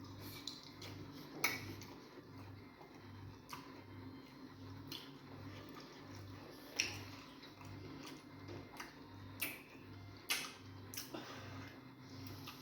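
Close-up eating sounds: irregular sharp clicks and wet smacks of chewing fufu with egusi soup. Under them runs a faint low hum that pulses about twice a second.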